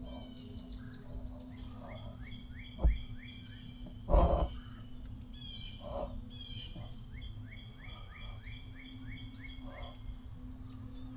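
Songbirds singing two runs of quick repeated chirps, the second longer. Two loud thumps come about three and four seconds in.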